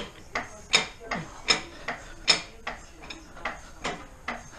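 Floor jack being pumped to lift a car: metallic clicks in a steady rhythm, about two to three a second, with a louder clack roughly every three-quarters of a second.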